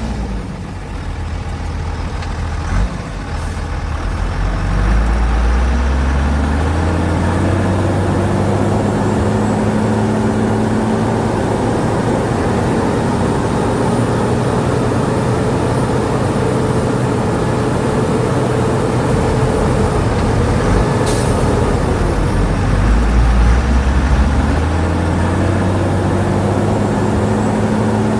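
Heavy diesel engine of earthmoving machinery revving up from low speed a few seconds in and running steadily under load. Its pitch dips and climbs again about three-quarters through, with a brief hiss in between.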